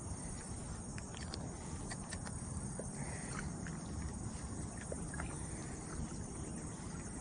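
Outdoor creek ambience: a steady low rushing noise, typical of fast-flowing water, with faint scattered clicks and ticks.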